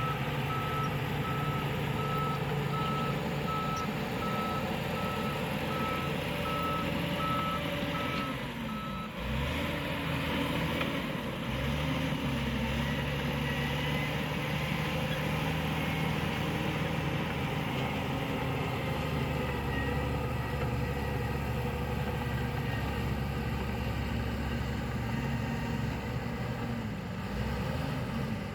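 Heavy construction vehicle's diesel engine running, with its reversing alarm giving a steady series of even beeps at one pitch for roughly the first third. The beeping then stops, and the engine note grows heavier as the machine works.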